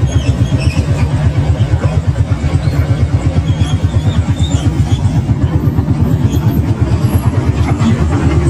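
Motorcycle engine running at low speed with a steady, rapid chugging pulse. A mini excavator's diesel engine is working close by.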